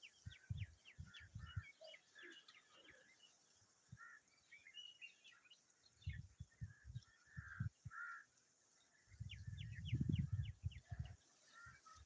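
Faint, quick high chirps and twitters of small birds, coming in dense runs near the start and again around eight seconds in, with low rumbling thumps now and then.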